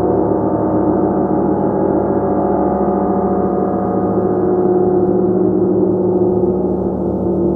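Gong played continuously in a sustained, swelling wash of many overlapping tones, loud and steady with no separate strikes standing out.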